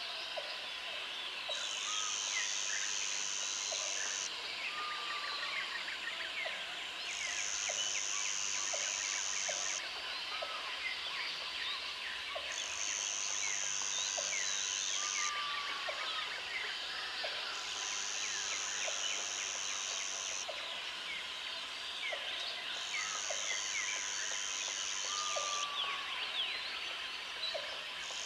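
Jungle ambience: an insect buzzes high and steady in bouts of about three seconds, coming back about every five seconds, over a dense chorus of chirping birds and insects. A few short falling whistled bird calls and low, regular ticking calls stand out.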